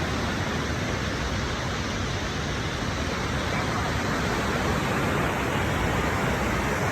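Steady, even rushing of flowing water, as from a nearby stream or waterfall.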